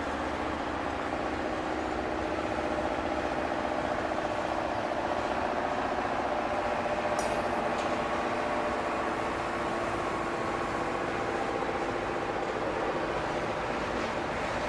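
Double-stack intermodal well cars of a freight train rolling past: a steady noise of steel wheels on rail, with a few steady ringing tones running over it.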